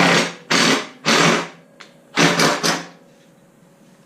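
Power driver run in four short bursts, spinning a bolt into a motorcycle's rear support bracket, stopped short of full tightness.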